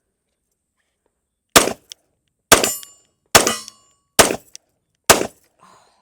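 Glock 29 Gen 4 subcompact pistol firing five 10mm rounds, a little under one a second, each shot with a short ringing tail. The fifth shot empties the magazine.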